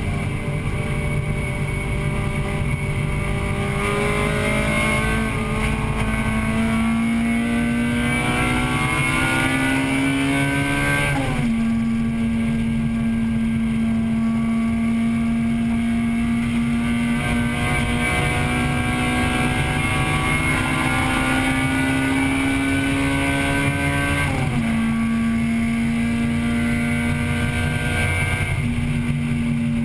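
1998 Acura Integra Type-R's 1.8-litre four-cylinder VTEC engine at high revs under racing load, heard from inside the car. The pitch climbs steadily, then drops sharply twice, about eleven seconds in and about twenty-four seconds in, as it is upshifted, over a steady road and wind rumble.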